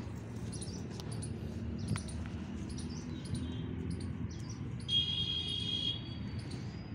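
Small birds chirping in short high calls throughout, with one louder, drawn-out call lasting about a second about five seconds in, over a steady low outdoor background.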